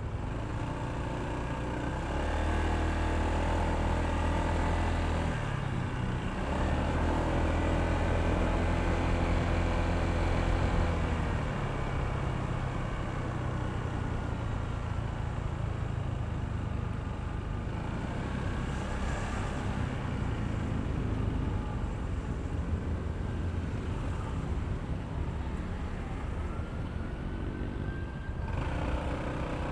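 Honda ADV160 scooter's single-cylinder engine running under way, its revs rising and falling, with road noise. It is louder for the first ten seconds or so, then eases to a lower, steadier running.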